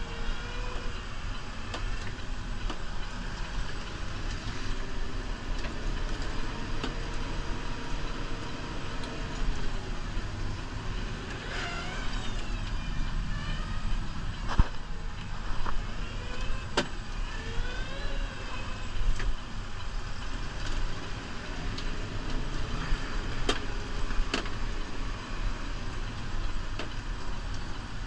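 New Holland Powerstar 75 tractor's diesel engine running steadily under plowing work, with a few short squeals and sharp clicks over the rumble.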